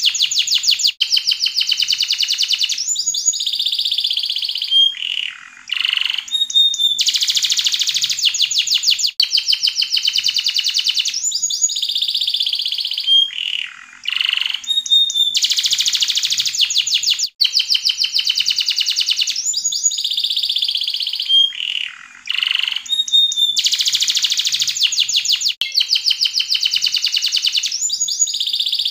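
Domestic canary singing a long, unbroken song of fast trills and rolls mixed with short whistled notes and downward glides. The same song sequence comes round again about every eight seconds.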